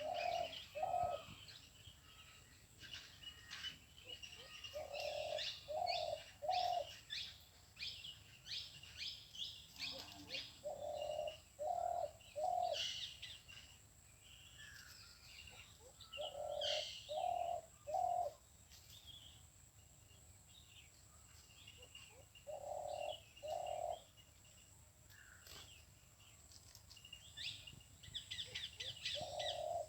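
Weaver birds chirping and chattering in quick high notes, with a dove cooing in short phrases of two or three low notes about every five to six seconds.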